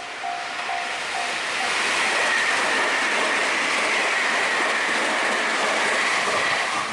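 Meitetsu Panorama Super electric train running past at speed: a loud, steady rush of wheels on rail that builds about two seconds in and eases off near the end. A pulsing warning tone fades under it at the start.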